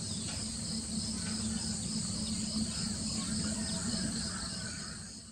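Steady chorus of insects, a continuous high-pitched buzz, over a low steady hum; it fades out near the end.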